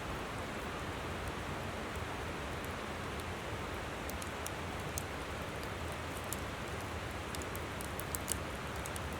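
Wood campfire crackling, with scattered sharp pops and snaps, over the steady rushing of a flowing river.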